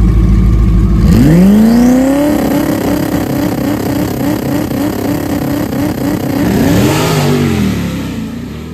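Street-race cars, a supercharged Jeep Grand Cherokee Trackhawk and a twin-turbo Ford F-150, accelerating hard at full throttle. The engine note rises sharply about a second in, holds steady, swells again near the end and fades.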